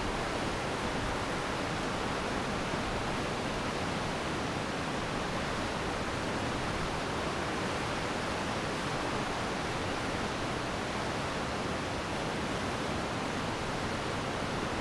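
Glacier meltwater stream rushing steadily, a constant even wash of water noise with no distinct splashes.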